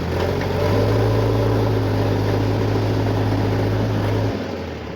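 Heavy diesel engine of a JCB backhoe or tractor running with a steady low hum. It grows louder about half a second in, holds, then drops back shortly before the end.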